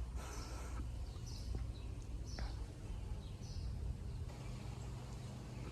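Faint bird chirps, short and high, recurring about once a second over a steady low background rumble, with a couple of faint clicks.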